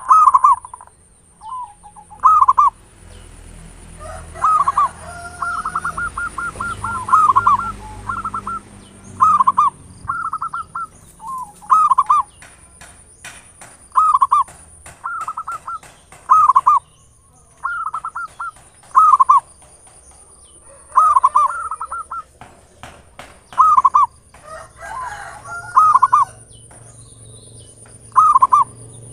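Zebra dove (perkutut) cooing over and over, short phrases of a few notes every one to two seconds, with a fast run of rapid notes about four to eight seconds in. A thin steady high-pitched tone runs underneath.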